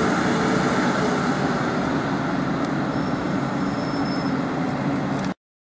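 A train running through the station: a steady rumble with wheel-on-rail noise and faint high-pitched squeals, cutting off suddenly near the end.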